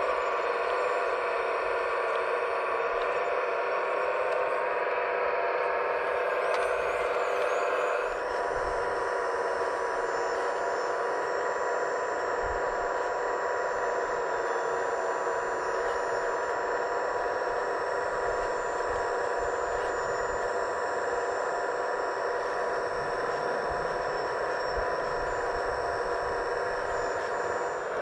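Hydraulic pump of a scale RC excavator whining steadily under the machine's work, its pitch dropping slightly about eight seconds in.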